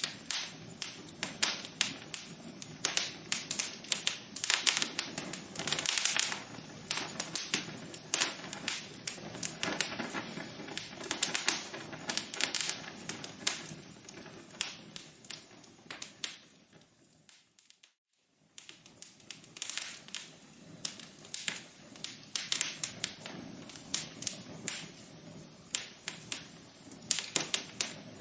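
Fire burning in a fireplace, crackling with dense, irregular pops and snaps over a soft hiss. About two-thirds of the way through it fades away to near silence for a second or so, then fades back in and crackles on.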